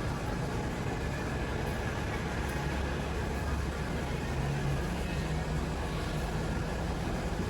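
Wind buffeting the microphone: a steady low rumble with a hiss on top.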